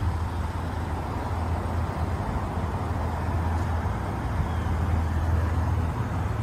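A 1995 Chevrolet Camaro's V6 engine idling steadily, a low, even hum.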